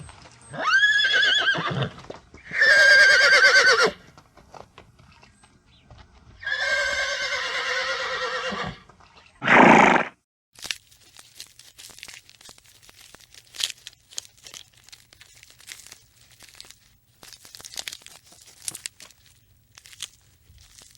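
Horse whinnying: three loud, quavering calls in the first nine seconds, then one short loud noisy burst about ten seconds in. After that there are only faint scattered clicks and crackles.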